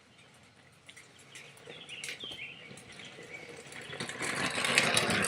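Faint bird chirps over a background noise that slowly grows louder, turning into a rustling noise near the end.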